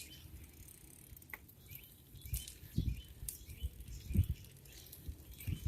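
Faint ticking and rattling from a bicycle being ridden, with soft low thumps about every second and a half.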